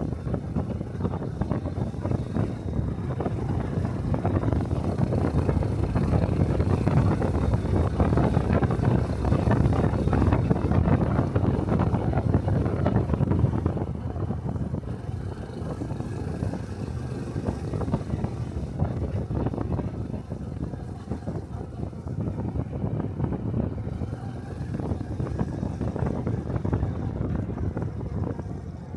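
A Honda Cub 125 cc single-cylinder motorcycle engine running on the move, with wind buffeting the microphone. It is louder in the first half and eases somewhat after about halfway.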